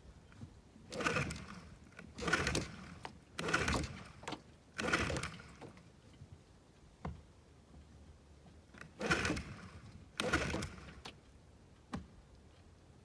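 Old outboard motor being pull-started on choke: six short pulls of the recoil starter, four in quick succession and two more after a pause. A couple of sharp clicks fall between them, and the engine does not catch.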